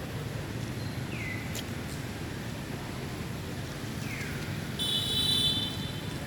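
Two short, high calls that fall in pitch, then a brief, louder buzzy call a little later, over a steady low outdoor rumble.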